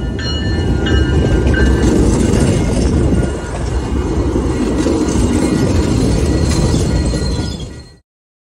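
MBTA Commuter Rail train rolling past along a station platform: a loud, steady rumble of wheels on the rails and passing coaches. It cuts off abruptly near the end.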